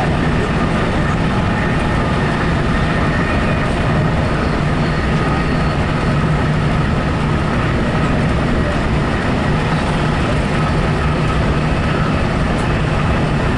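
Steady running noise inside a moving passenger train car: a continuous low rumble from the wheels on the rails, with a faint steady whine above it.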